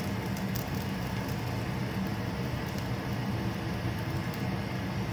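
Aloo paratha sizzling in ghee on a hot tawa, a soft steady frying hiss with light crackles, over a steady low hum.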